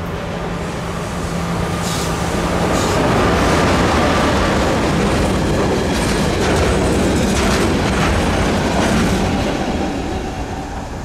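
Train running past on the station tracks, a rumble that builds to its loudest about four seconds in and fades near the end. Its wheels clack over rail joints several times along the way.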